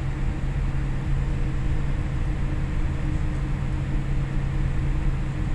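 Steady cabin noise inside a Boeing airliner: a constant low hum with an even rush of air from the engines and ventilation, with no change in pitch or level.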